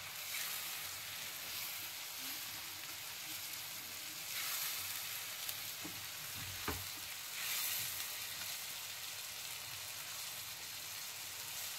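Potato, onion and tomato masala sizzling in hot oil in a nonstick kadhai while being stirred with a plastic spatula, the masala being roasted (bhuna) with its spices. The sizzle swells twice as the food is turned, with a couple of light knocks of the spatula against the pan between the swells.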